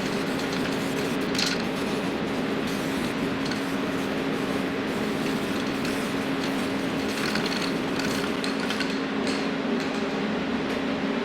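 A machine running steadily with a constant hum, with scattered light ticks and scrapes over it.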